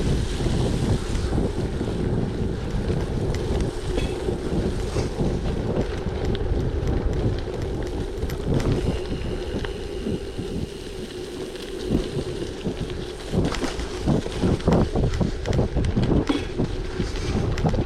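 Wind buffeting the microphone over the rolling noise of a gravel bike on a rough track, with bumps and rattles coming more often in the last few seconds.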